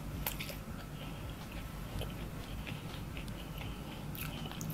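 A person chewing a mouthful of fried rice, with a few faint wet mouth clicks.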